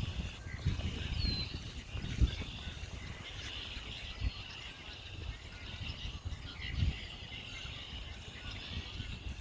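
Birds chirping steadily, with a short clear chirp about a second in, under wind rumble and irregular low knocks on a moving handheld microphone.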